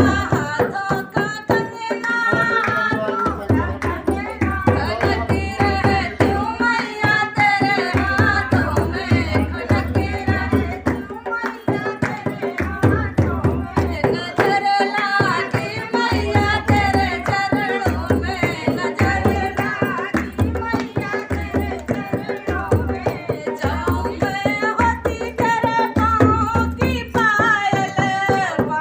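A woman singing a devi geet, a Hindu devotional folk song to the goddess, with a hand drum playing a steady rhythm beneath her voice.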